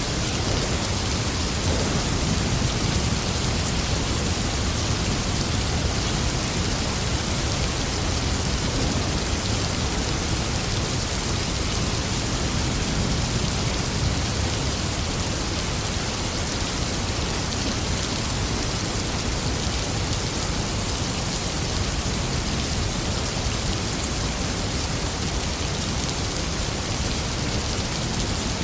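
Steady rain falling and pattering on surfaces, an even continuous hiss with no let-up.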